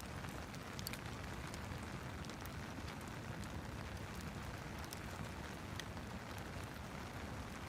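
Steady rain with a fireplace crackling, its sharp little pops scattered irregularly over the even hiss of the rain.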